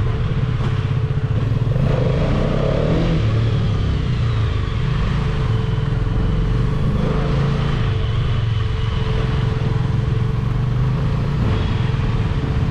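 Hero Karizma XMR 210's single-cylinder engine running steadily, with a thin steady hum over it that the rider takes for the radiator fan coming on under heavy load.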